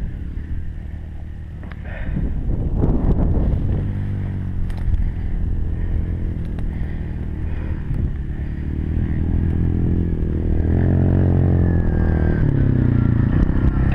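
Four-stroke dirt bike engine running steadily, rising in pitch and getting louder from about ten seconds in. Knocks and wind noise on the microphone come before the engine sound settles.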